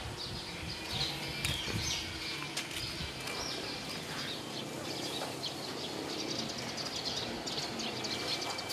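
Birds chirping, many short scattered calls over a steady background hiss.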